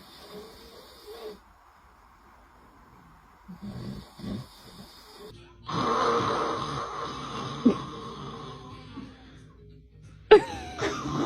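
A person snoring: several separate snores, the longest and loudest starting about six seconds in.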